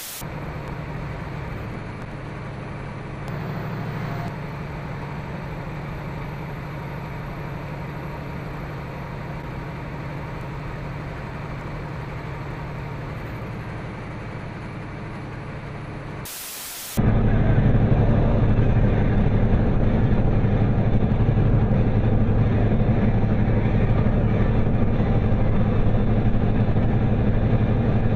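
Steady road and engine noise inside a moving car, picked up by a dashcam, with a faint thin high whine. About sixteen seconds in, a brief burst of noise, then a louder, deeper steady drone.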